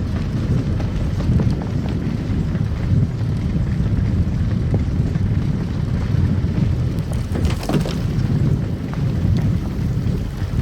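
Car driving on a snow-covered road: a steady low rumble of tyres and engine, with a short cluster of crackles and clicks about seven to eight seconds in.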